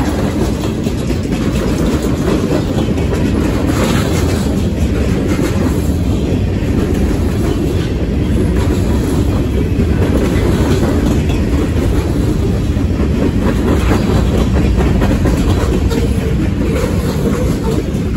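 Freight train cars rolling past close by: a steady, loud rumble of steel wheels on rail, with clicking as wheels pass over rail joints.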